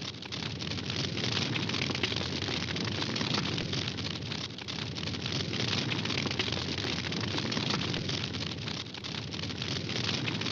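Wood campfire burning, with dense continuous crackling over a steady noise of the flames.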